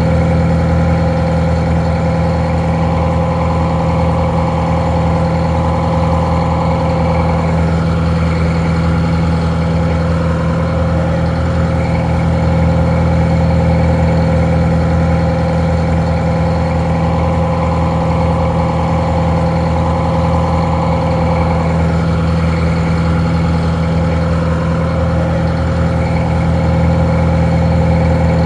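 Detroit Diesel 4-71 inline four-cylinder two-stroke diesel idling steadily, sounding a little muffled.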